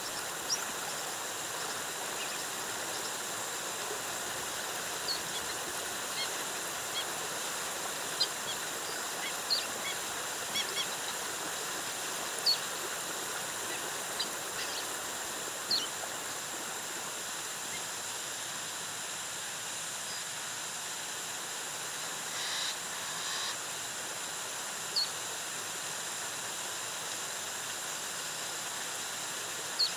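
Steady rush of a rainforest waterfall, with short high-pitched bird chirps scattered over it. A brief, fuller call sounds about two-thirds of the way through.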